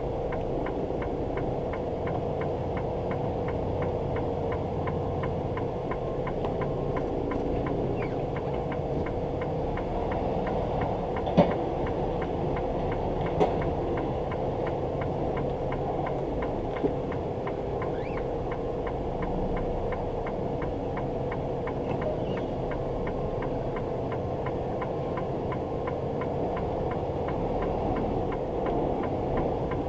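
Steady drone of a semi truck's engine and road noise, with a held hum. Three sharp clicks stand out about 11, 13 and 17 seconds in.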